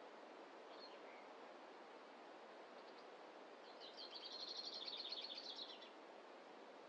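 A small songbird gives a short chirp about a second in, then sings a fast trill of rapid repeated high notes lasting about two seconds. This rises over a faint, steady hiss of forest ambience.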